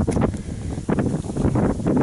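Strong, gusty wind buffeting the microphone, an uneven low rumble with irregular pops and flutters.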